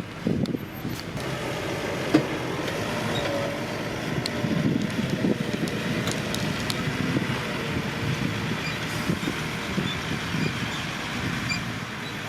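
Heavy diesel earthmoving machinery running steadily with a low rumble, and a few sharp metallic knocks, the loudest about two seconds in.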